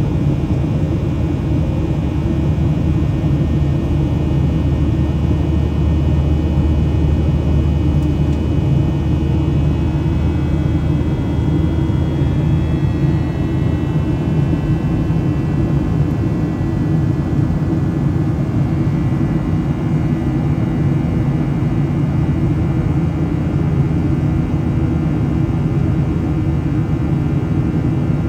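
Cabin noise of a Boeing 737-700 in the climb after takeoff: the steady drone of its CFM56-7B turbofan engines and airflow, with thin high whining tones that shift in pitch about halfway through.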